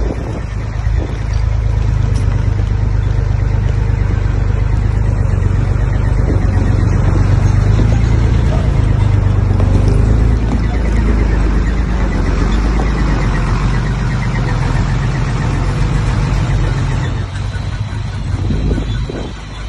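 Heavy diesel engine of earthmoving machinery running hard under load, with a steady low drone that eases off near the end.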